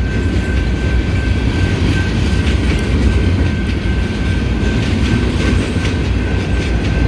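A train passing close by: a steady low rumble with the clickety-clack of its wheels on the rails.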